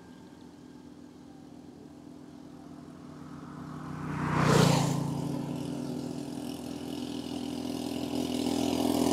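Road traffic: a vehicle passes close by, its noise swelling to a peak about halfway through and falling away. Engine hum runs on after it, and another vehicle comes closer near the end.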